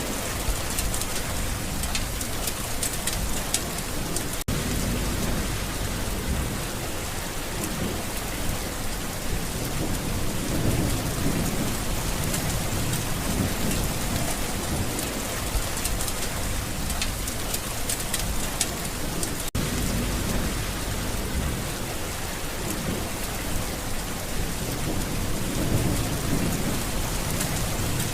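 Steady rain falling, with low rumbles of thunder swelling and fading every few seconds. The sound drops out for an instant twice.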